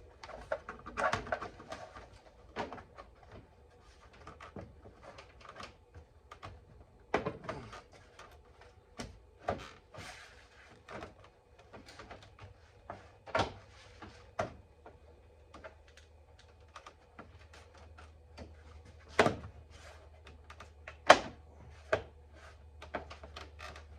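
A car's last cover being fitted back on by hand: scattered clicks, taps and knocks at irregular intervals, with two sharp knocks near the end the loudest.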